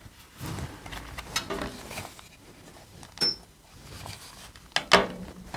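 Faint scattered clicks and knocks, with a louder double knock near the end.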